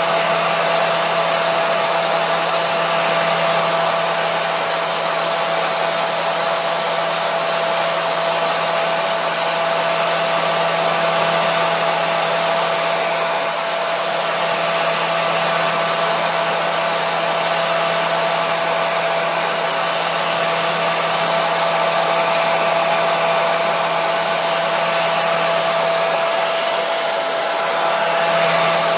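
Electric hair dryer running steadily on one setting: a constant rush of air over the motor's whine, with a steady high tone and a low hum that do not change.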